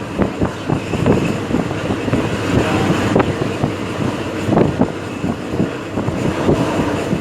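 Moving train with continuous rattling and clatter, and wind buffeting the microphone.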